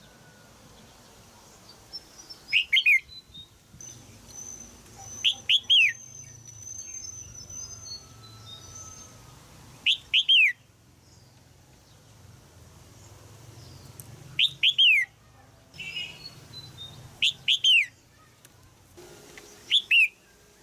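Female red-whiskered bulbul in a cage giving short, sharp chattering calls. The notes come in quick pairs and triples, each falling in pitch, and the groups repeat about every two to five seconds. Fainter thin, high chirps sound in between.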